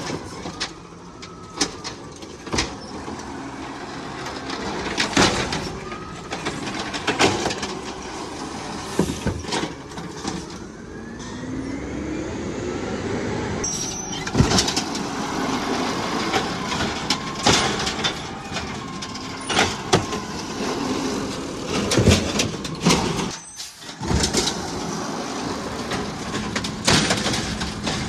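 Garbage truck at work: engine and hydraulics running, with a rising whine about halfway through and repeated sharp knocks and bangs.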